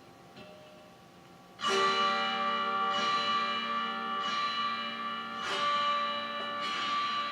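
Amplified autoharp being strummed: after a quiet start, a loud ringing chord comes in about a second and a half in, and is struck again about every second and a quarter, each chord ringing on into the next.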